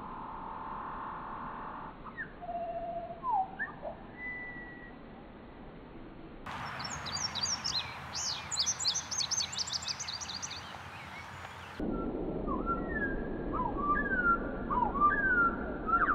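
Bird calls from several different recordings spliced together: a few sliding whistled notes, then a fast run of high chirps in the middle, then falling whistles over a steady rushing noise near the end.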